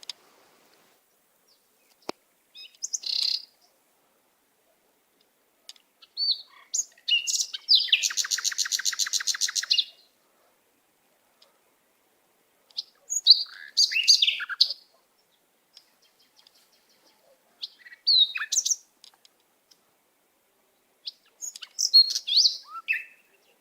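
Songbird singing in short phrases of chirps and whistles, with pauses between them. A fast, even trill of about ten notes a second runs for about two seconds a third of the way in.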